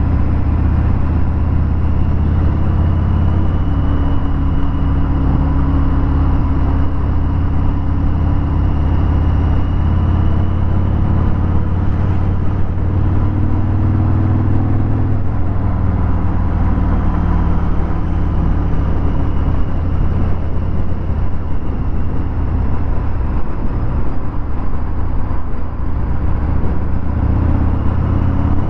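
Harley-Davidson Fat Bob 114's Milwaukee-Eight 114 V-twin running through a Vance & Hines Hi-Output 2-into-1 exhaust, a steady loud low rumble while riding in traffic, engine speed rising and falling slightly.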